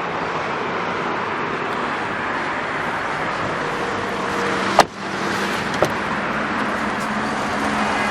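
Steady outdoor traffic noise, with one sharp car-door clunk about five seconds in and a lighter click a second later.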